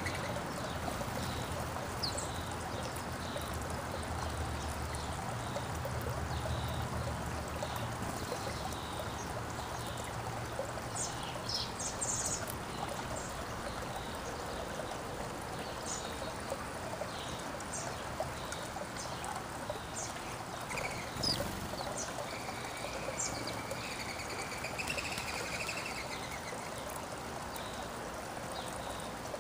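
Small backyard songbirds chirping in short, scattered high calls, with a longer trilling call about three-quarters of the way through, over a steady rushing noise.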